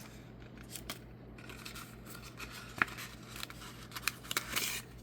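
Paper being handled as a small paper packet is opened and its quick-start guide pulled out, with small clicks, a sharp tick nearly three seconds in and a short rustle near the end.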